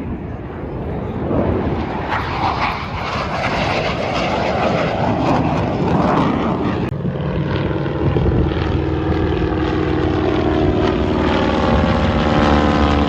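Aircraft engine noise from a flypast, loud and swelling. About eight seconds in, a steady humming tone with a slowly rising pitch comes in over the noise.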